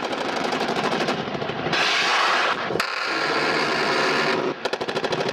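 Sikorsky UH-60 Black Hawk helicopter, its rotor blades beating in a rapid, even pulsing chop.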